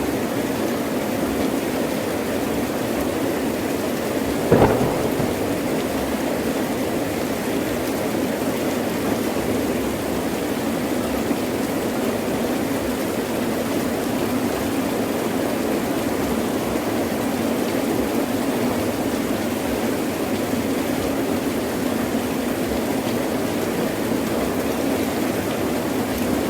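Heavy rain falling steadily, with one short, sharp clap of thunder about four and a half seconds in.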